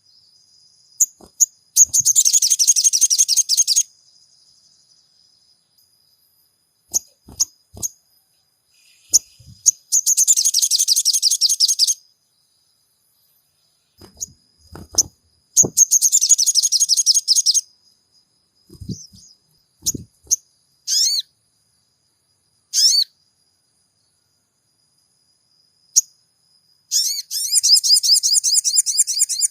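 Song of a sogon (ruby-cheeked sunbird): high, rapid trilled chatter in bursts of about two seconds, four times, with single sharp chirps and short calls in between.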